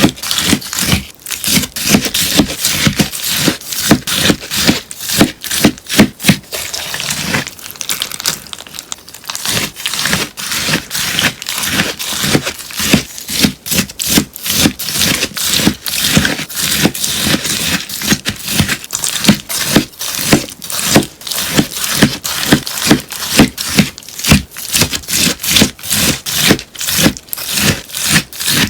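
Crunchy slime made with pieces of melamine sponge being worked by hand, giving crisp crackling strokes over and over, two to three a second.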